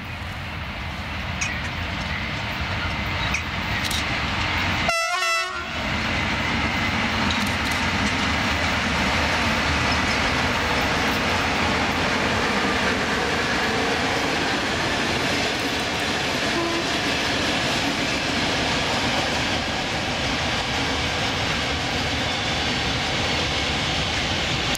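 Trains passing on the electrified line: an electric-hauled freight train and a double-deck passenger train. A steady, loud rumble of wheels on rail builds over the first few seconds and holds, broken by a brief dropout about five seconds in.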